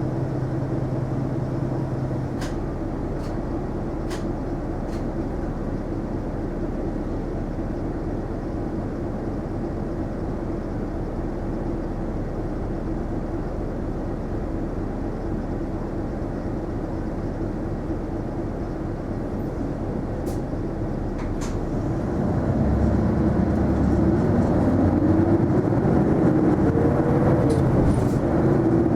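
Inside the cabin of an Isuzu Erga non-step city bus: steady engine and road noise while under way, with a few sharp clicks. About 22 seconds in, the engine grows louder and rises in pitch as the bus accelerates.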